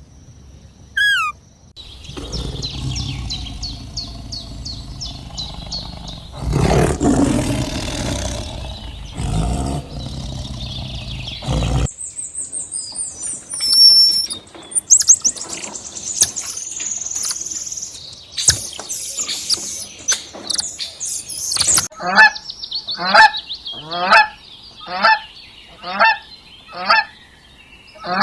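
A string of bird and animal calls: high repeated chirps over a rough low noise, then assorted calls and clicks, then about ten evenly spaced waterfowl calls near the end.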